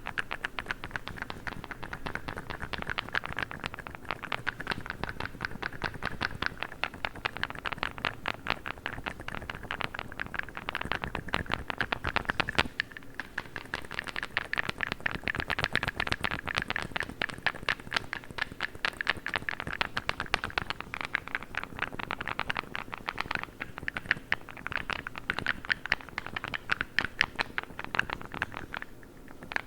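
Fingers tapping and scratching rapidly on a blue massage tool close to the microphone, making a dense, continuous stream of quick clicks.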